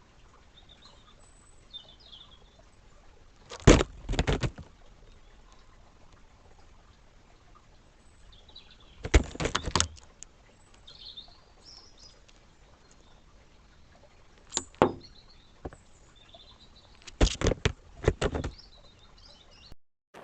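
Short bursts of rapid sharp taps, four times, typical of a magpie pecking at window glass, with faint bird chirps between the bursts.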